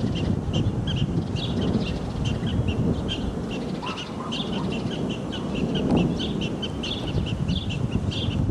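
Wind rumbling on the microphone, with a bird chirping in a fast, even series of short high notes, several a second.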